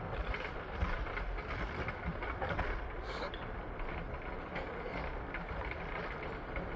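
PATH train running on the rails: a steady rumble with a constant rattle of small clicks, and a brief high squeak about three seconds in.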